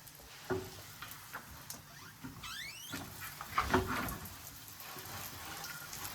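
Light clicks and knocks of kitchen handling, with a quick run of rising squeaks a little over two seconds in.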